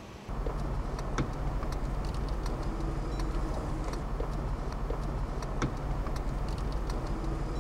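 A vehicle engine idling with a steady low hum, with scattered light clicks.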